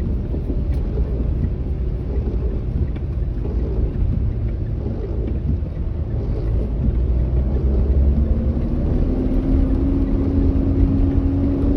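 Car engine and road rumble heard from inside a manual car while it is driven. The engine note climbs steadily in pitch over the second half as the car speeds up.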